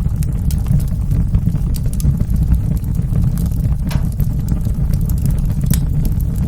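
Wood fire burning in a fireplace: a steady low rumble with frequent small crackles and sharp pops, one louder pop about four seconds in.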